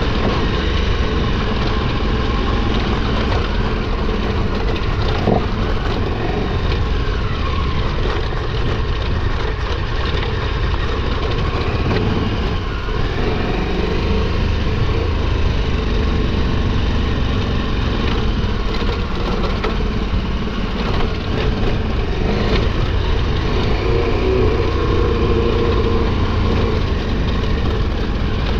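KTM 1290 Super Adventure R's V-twin engine running steadily at low revs on a rough dirt trail, with scattered small knocks.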